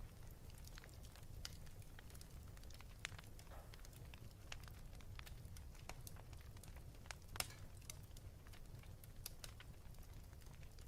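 Wood fire burning in a fireplace: irregular crackles and pops over a low steady rumble, with one louder pop about seven seconds in.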